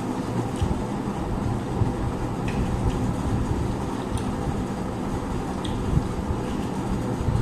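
Steady low hum, with a few faint clicks of eating from a plate.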